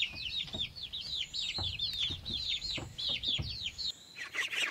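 Domestic chicks peeping: a rapid run of high, downward-slurred peeps, several a second, with faint low knocks beneath. About four seconds in, a denser chorus of peeps takes over.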